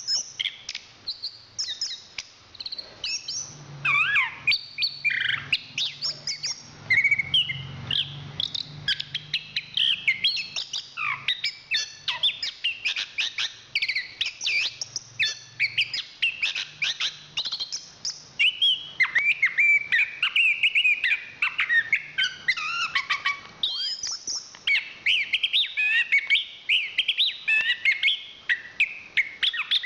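Chestnut-capped thrush (anis kembang) singing without pause: a fast, varied stream of chirps, whistles and trills with many quick up-and-down sweeps.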